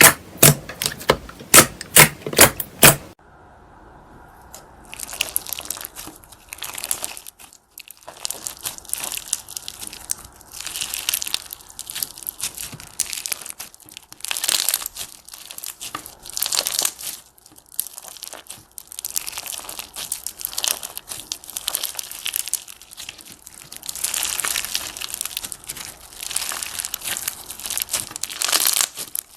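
Slime being worked by hand, giving irregular bursts of crisp crackling. It opens with a quick run of sharp clicks that stops abruptly about three seconds in, and the crackling starts about two seconds later.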